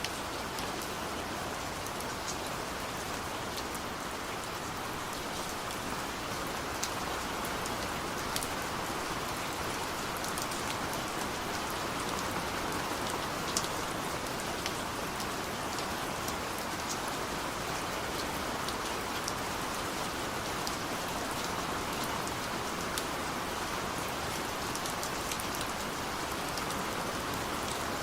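Steady rain falling, a constant hiss with scattered sharper drips and taps of drops hitting a surface.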